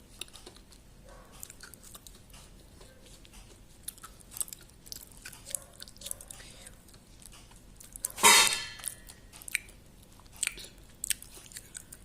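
Close-miked chewing and eating: scattered wet mouth clicks and smacks, with one much louder half-second noise about eight seconds in.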